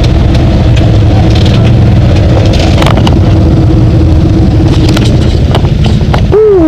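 Side-by-side UTV engine running loudly on a wet off-road trail, with scattered clicks and knocks from the ride. Near the end, a short squeal rises then falls in pitch.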